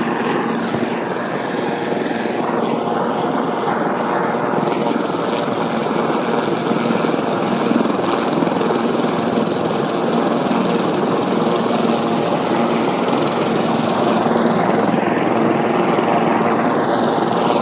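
Helicopter flying, its rotor and engine making a loud, steady noise, with a slow sweeping shift in the tone near the start and again near the end.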